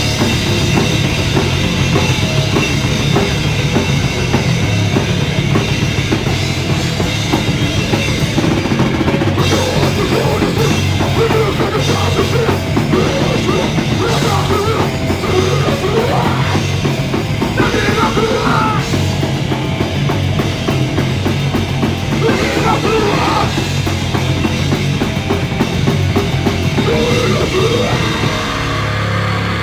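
Live punk rock band playing loud, with the drum kit prominent, recorded on a mobile phone.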